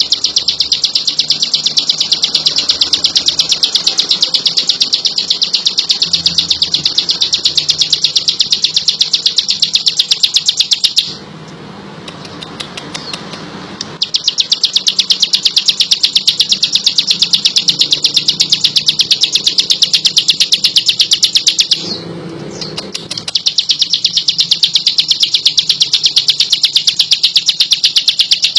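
Ciblek lulut (a prinia) singing gacor: a fast, unbroken chatter of high repeated notes, many a second. It breaks off twice for a few seconds, once at about 11 seconds and again near 22 seconds.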